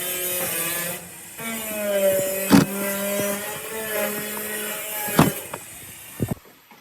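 A small motor-driven tool running with a whine that shifts a little in pitch. It dips briefly about a second in, has two sharp clicks, and winds down near the end.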